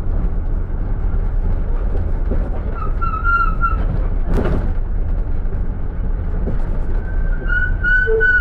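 Minibus brake pads squealing: a thin high whistle that sounds for about a second around three seconds in and again from about seven seconds on, over the steady low rumble of the vehicle. A short noisy burst comes a little past the middle.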